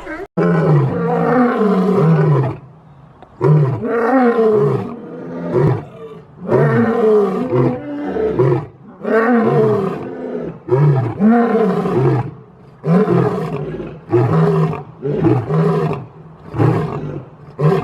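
Big cat roaring over and over, about a dozen calls of roughly a second each, each one rising and then falling in pitch.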